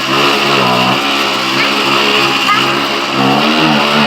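Mini motorcycle's small engine running very loud, revving up and down repeatedly.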